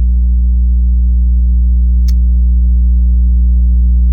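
Loud, steady low hum with a few overtones, unchanging throughout, with one short sharp click about two seconds in.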